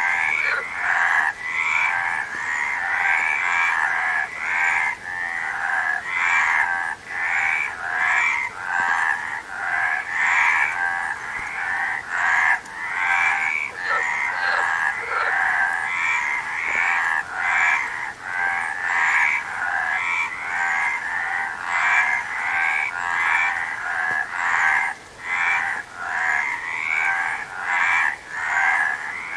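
Frogs croaking in a dense chorus: short calls overlap and repeat about once or twice a second, without a break.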